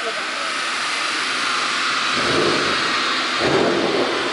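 A car running hard on a chassis dynamometer: a loud exhaust and engine roar that swells about two seconds in.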